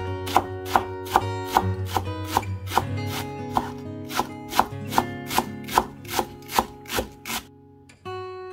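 A knife chopping on a cutting board with evenly spaced strokes, about two and a half a second, stopping near the end, over background acoustic guitar music.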